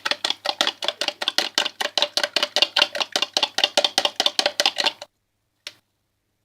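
Fork whisking beaten eggs and milk in a bowl: fast, even clicking strokes about six a second that stop abruptly about five seconds in, with one more click shortly after.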